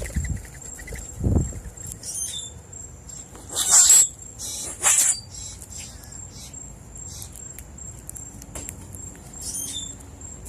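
Steady high-pitched insect trill, with short bird chirps and a low thump early on. Two brief loud rustling bursts come about four and five seconds in.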